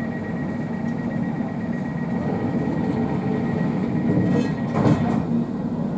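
Inside a Class 345 electric train, the carriage rumbles along with a steady high whine. A brief rattle of knocks comes about four and a half to five seconds in.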